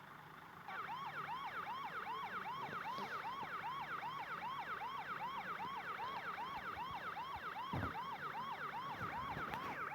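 Police siren in a fast yelp, its pitch swooping up and down about three times a second, starting just under a second in.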